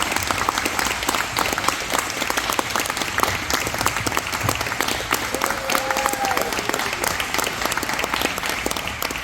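Crowd applauding, a dense, steady patter of many hands clapping, with one brief held call from a voice about six seconds in.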